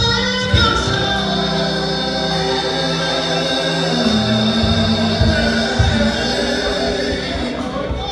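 Gospel music with a choir singing held notes over a steady bass line.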